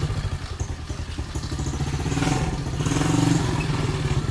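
SSR 125 pit bike's single-cylinder four-stroke engine idling cold through an aftermarket muffler, with a steady low firing beat that rises a little in the second half.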